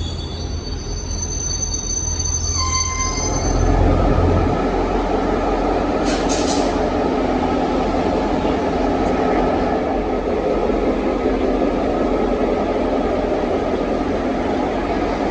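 Train wheels squealing in several steady high tones. About three seconds in, a louder steady rumble of the train running on the rails takes over, with one short squeal about six seconds in.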